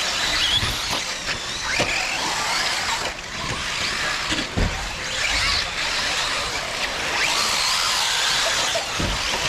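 Several electric radio-controlled off-road cars running on a dirt track: high motor whines rising and falling with the throttle over a steady hiss of tyres and dirt, with a few dull low thumps.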